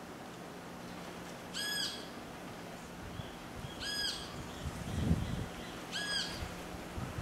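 A bird calling three times, about two seconds apart: each a short, clear note that rises and falls slightly. A steady low hum runs underneath, and a brief low rumble comes about five seconds in.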